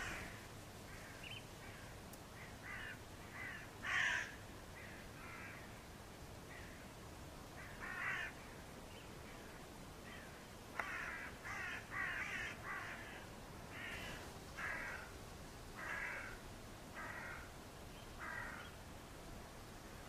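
Short, harsh bird calls repeated at irregular intervals over faint background noise. The loudest comes about four seconds in, and a quick run of them follows around the middle.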